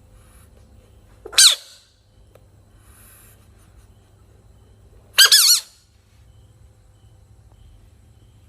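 Rain frog squeaking twice: two short, loud, high-pitched squeals with a wavering pitch, the first about a second and a half in, the second about five seconds in and lasting about half a second.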